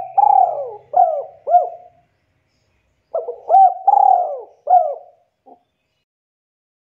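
Spotted dove (tekukur) cooing: a phrase of several arching coo notes, a pause of about a second, then a second similar phrase about three seconds in.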